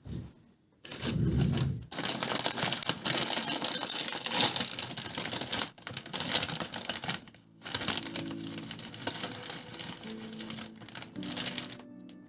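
Close, dense rapid clicking and crackling, with short breaks about two, six and seven seconds in. Soft background music with steady tones comes in about eight seconds in.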